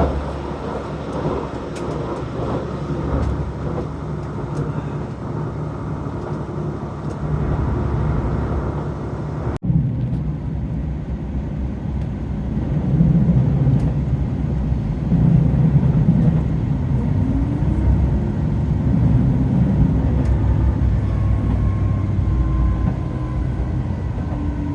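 Diesel railcar running, a steady low engine and wheel rumble. It cuts off abruptly about ten seconds in and resumes with a heavier low throb and a rising tone, then a faint falling whine near the end as the train slows.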